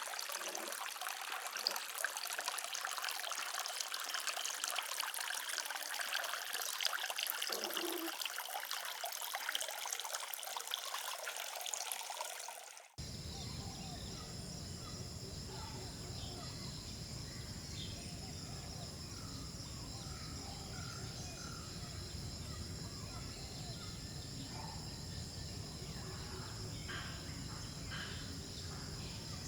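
Water trickling and splashing for the first half, then an abrupt cut about 13 seconds in to steady outdoor ambience: insects buzzing at several steady high pitches over a low rumble.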